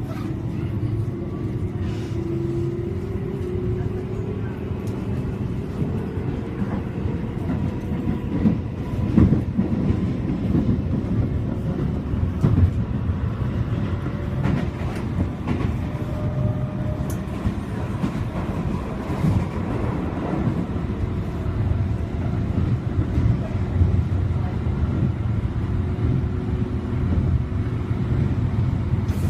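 Keio 8000 series electric train heard from inside the car while running, a steady rumble with a motor whine that climbs slowly in pitch over the first few seconds. Several knocks from the wheels over rail joints come in the middle.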